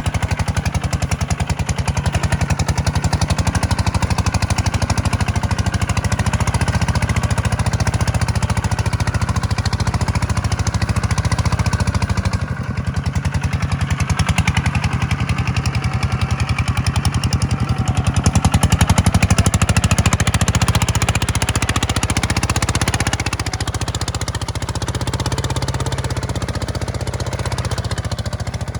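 Kubota tractor's diesel engine running steadily while pulling a plow through sand, its level dipping briefly near the middle and easing a little toward the end.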